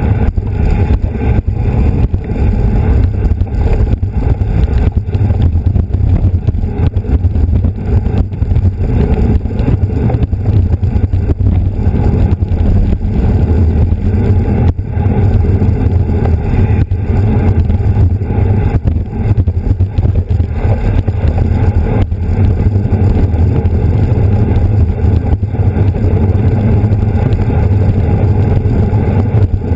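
Wind buffeting a moving camera's microphone: a steady, loud, low rumble.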